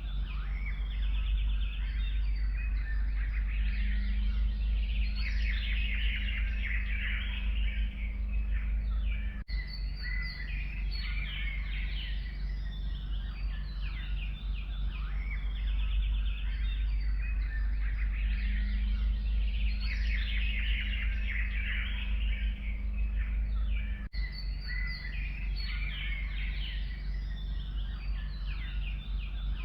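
Forest birds chirping and trilling in a busy, continuous chorus over a steady low rumble, with two brief dips in level about ten and twenty-four seconds in.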